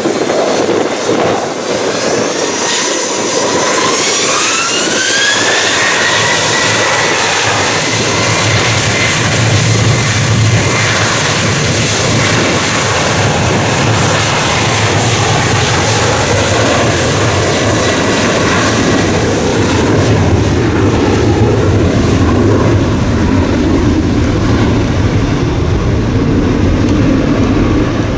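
Jet airliner engines: a whine rising in pitch over the first few seconds, then a low roar that builds and holds.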